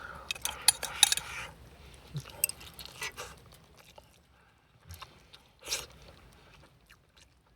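A person eating fish: small clicks and taps of chopsticks on a dish, thickest in the first second or so, with quiet chewing and sparse faint ticks after.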